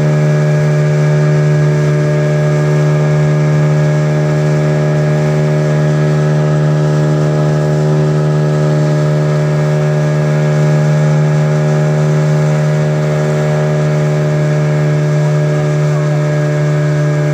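A boat's engine running at a steady speed, a constant loud drone that holds one pitch throughout.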